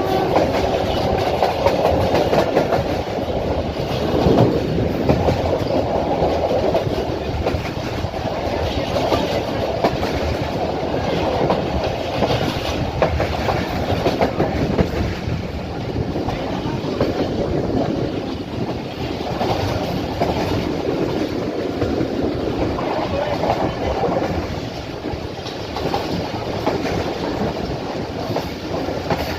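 Passenger train running along the line at speed: a steady rumble of the coaches with the wheels clicking over the rail joints.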